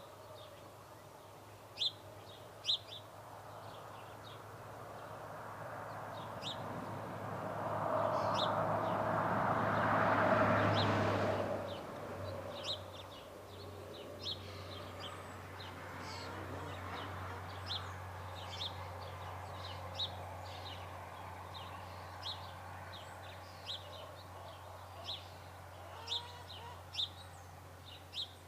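Small birds giving short, high chirps, repeated every second or so. Underneath, a rush of noise swells up and dies away, loudest about ten seconds in, over a steady low hum.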